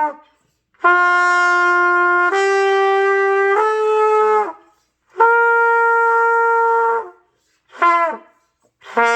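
Trumpet playing slow, held practice notes: a long note that steps up in pitch twice, a short gap, another long higher note, then a brief note that slides down and breaks off, and a lower note starting near the end.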